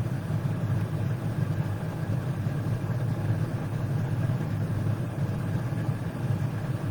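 Steady low droning hum with a faint even hiss, unchanging throughout.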